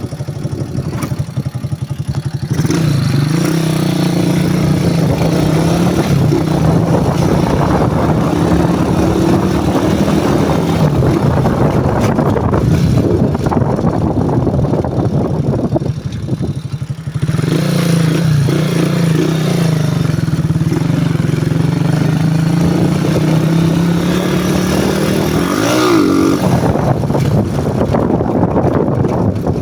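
CG150 single-cylinder motorcycle with an aftermarket exhaust running at steady revs while riding. It drops off briefly about halfway through, picks up again, and near the end the revs rise and fall quickly before settling lower.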